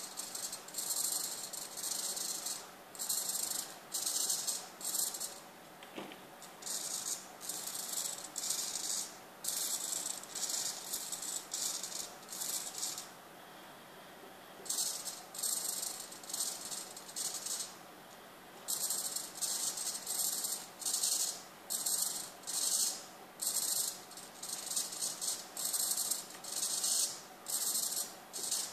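Small hobby servos of a pan-tilt camera mount whirring in short, high-pitched bursts as the mount pans and tilts, stopping and starting over and over with brief pauses.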